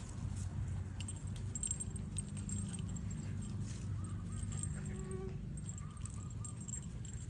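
Two dogs squabbling, with a few faint high whines about four to six seconds in over a steady low rumble.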